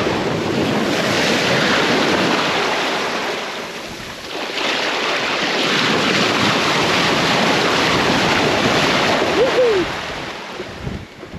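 Sea water rushing and splashing along a sailboat's hull as she sails, swelling twice and easing off near the end, with wind buffeting the microphone.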